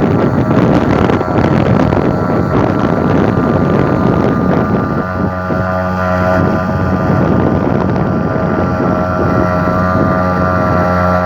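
HDX 2.6 hp outboard motor running at a steady speed under way, its note unchanging, with wind noise on the microphone.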